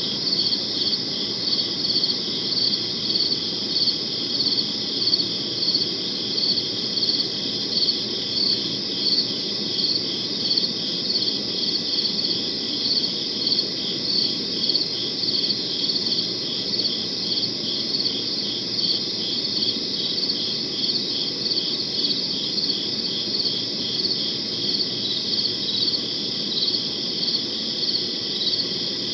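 Crickets chirping steadily in regular pulses, about two chirps a second, over a low steady background noise.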